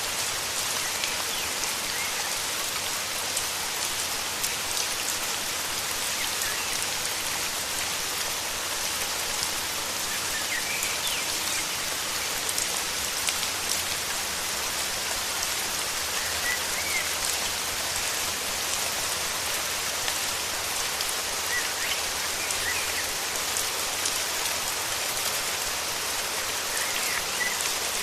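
Steady rain falling, with faint short bird chirps every few seconds.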